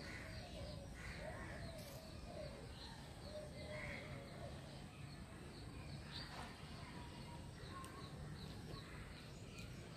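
Faint outdoor ambience with birds calling: short wavering calls repeating for the first few seconds and scattered high chirps throughout, over a steady low hum.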